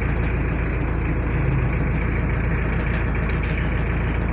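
Toyota car engine idling steadily, heard from inside the cabin.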